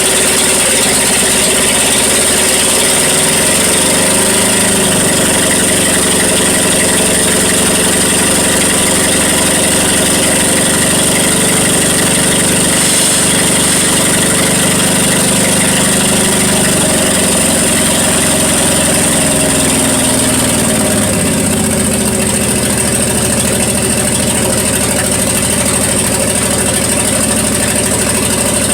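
Plymouth Duster's slant-six engine running at idle while warming up after a cold start in freezing weather. Its speed rises a few seconds in, holds higher, then drops back to a lower idle a little past two-thirds of the way through.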